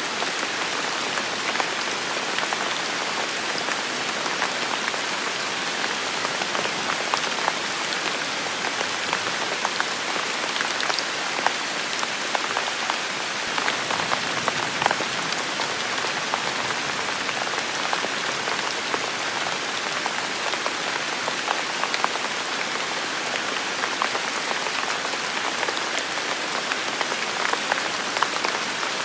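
Heavy rain falling steadily: a dense, even hiss with many individual drop hits ticking through it.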